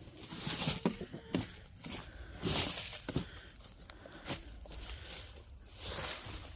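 Rustling, crackling and scraping of dry litter and debris being moved by hand, with scattered sharp knocks.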